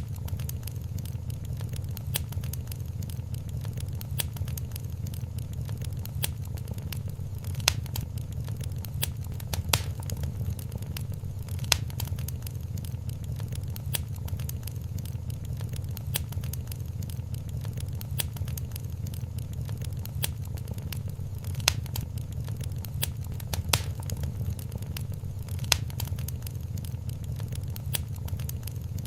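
Wood fire crackling in a fireplace: a steady low rumble of the flames under frequent small crackles, with a few sharper pops standing out about two seconds apart.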